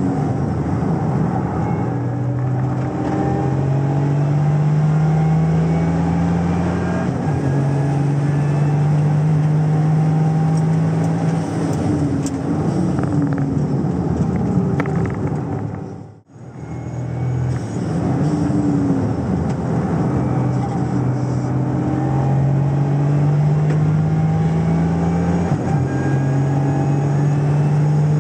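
Toyota GR Yaris turbocharged three-cylinder engine, fitted with a prototype intake kit, heard from inside the cabin under hard acceleration on track. The pitch climbs slowly and drops at each upshift, with a wavering stretch of braking and downshifting in the middle. The sound briefly cuts out about sixteen seconds in.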